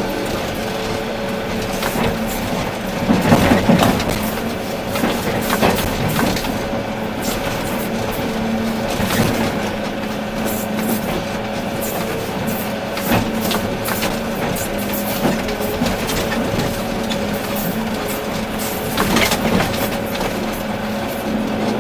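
Volvo EC380D excavator running with a steady engine hum, broken by irregular crunches and clanks from the bucket working rock and soil, the loudest about three seconds in.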